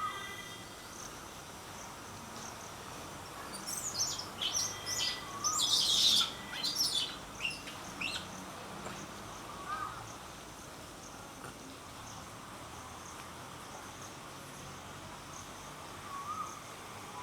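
Birds chirping: a flurry of rapid high chirps from about four to eight seconds in, and a short rising-and-falling call repeated every few seconds, over a steady high insect drone.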